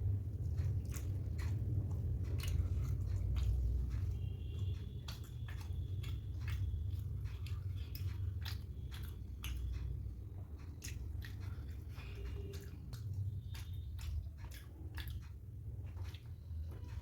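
Close-miked chewing and wet mouth sounds of someone eating soft pooris with curry: many short, irregular smacks and clicks over a steady low hum.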